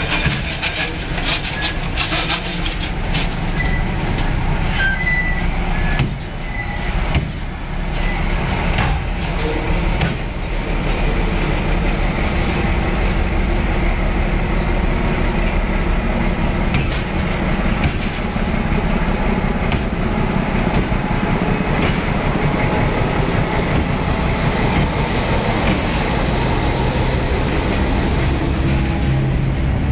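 Freight train wagons rolling past, a steady loud rumble of steel wheels on the rails. In the first ten seconds it is broken by many sharp clacks and a few brief squeals.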